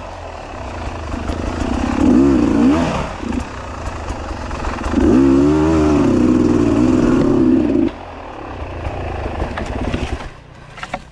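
300cc two-stroke enduro motorcycle engine revving: a couple of quick rises and falls about two seconds in, then held up for about three seconds before dropping back to a lower, steady run.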